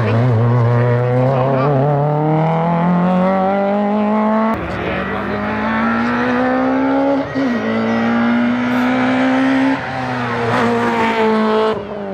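A race car's engine revving hard under full acceleration, its pitch climbing steadily through each gear. There are sharp drops at the upshifts, about four and a half seconds in, near ten seconds and again just before the end.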